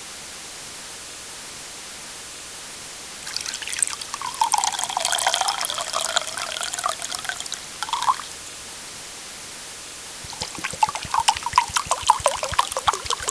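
Liquid poured into a drinking vessel, starting about three seconds in and lasting about five seconds, with a resonant pitch that drops and then climbs as it fills. A second pour follows after a short pause, splashier and full of fine clicks.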